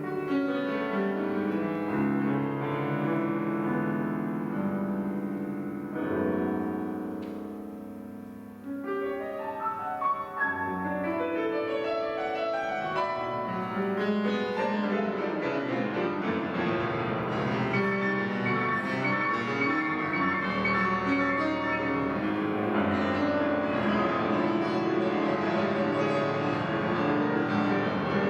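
Piano playing freely improvised music: ringing chords that die away about eight seconds in, then a dense stream of quick notes across the keyboard.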